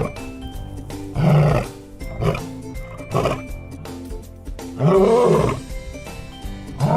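Lion roaring over cheerful background music: a roar about a second in, two short grunts, then the loudest, longest roar about five seconds in, with another beginning at the very end.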